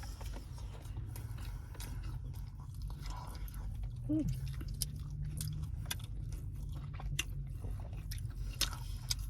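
Close-up chewing of a chicken shawarma wrap: many small wet mouth clicks and smacks over a steady low hum, with a brief falling voice sound about four seconds in.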